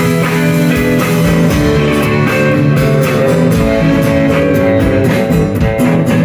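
Live band playing the instrumental opening of a song, a steady groove with no singing.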